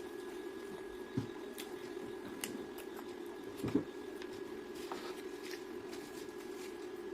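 Quiet eating and food-handling noises: a few soft clicks and taps, the loudest a little under four seconds in, over a steady low hum with a faint high whine.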